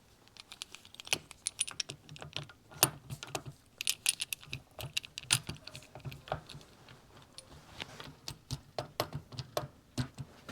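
Small metal parts clinking and clicking irregularly as the kickstarter shaft assembly and its return spring are worked into a two-stroke motorcycle engine case.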